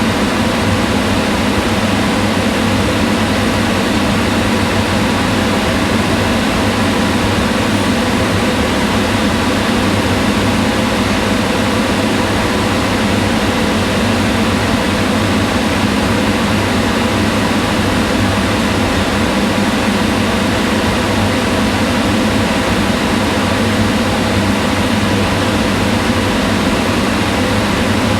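Kitchen range hood exhaust fan running steadily: a constant whirring rush of moving air, strongest in the low mids, with a faint motor hum and no change.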